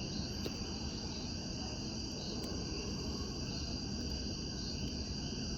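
Steady chorus of crickets and other insects: a continuous high trill that holds even throughout.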